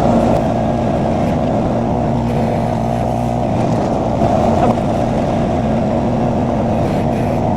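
Derette XC1100 mini skid steer's engine running steadily.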